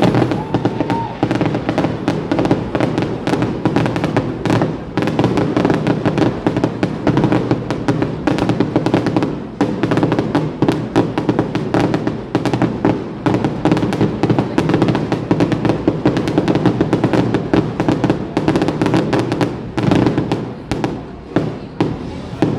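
Fireworks crackling and popping in a rapid, continuous barrage of many sharp reports a second, thinning slightly near the end.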